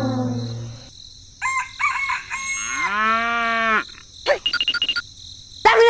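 A falling brass-like tone fades out in the first second. Then comes a series of farm animal calls: short pitched calls, one long call that rises and then holds about three seconds in, and a quick run of short repeated notes.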